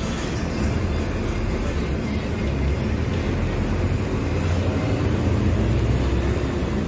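Mercedes-Benz OF-1721 Bluetec 5 bus's six-cylinder diesel engine running with a steady low rumble, getting a little louder in the second half.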